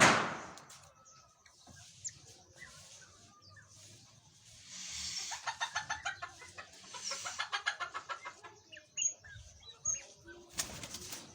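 Golden pheasants' wings beating in a sudden loud flap at the start. A rapid run of pulses follows for about four seconds midway, and a shorter flurry comes near the end. Small birds chirp faintly throughout.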